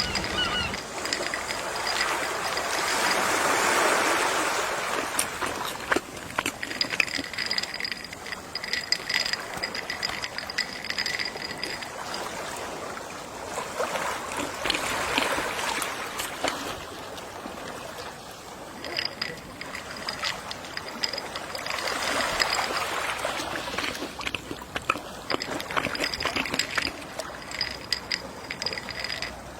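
Gentle sea waves washing in and drawing back, swelling three times, about 4, 15 and 23 seconds in.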